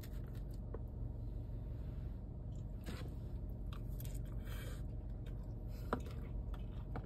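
Close-up chewing and biting of a mouthful of soft kimchi fries, with a few small clicks and scrapes of a plastic fork in a paper takeout box, the sharpest about six seconds in, over a steady low hum.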